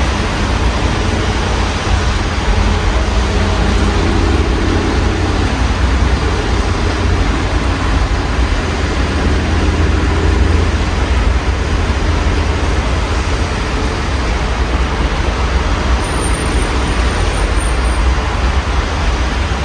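Steady rain heard through an open window with city road traffic under it: a constant low rumble, and a vehicle passing about a third of the way in.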